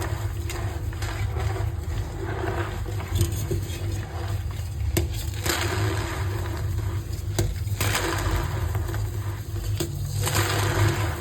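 Blocks of reformed gym chalk being crushed, crunching with a few sharp cracks, over a steady low hum.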